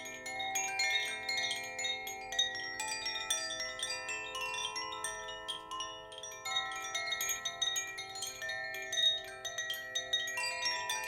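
Chimes ringing continuously, many struck metal tones jingling and overlapping as they sustain.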